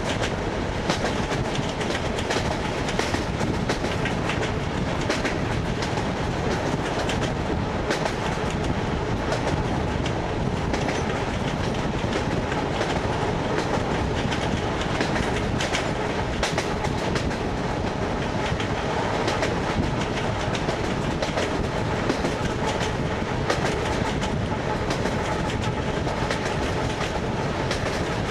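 ED9MK electric multiple unit running at speed on jointed rail track, heard from inside the carriage: steady running noise with the clickety-clack of the wheels striking the rail joints.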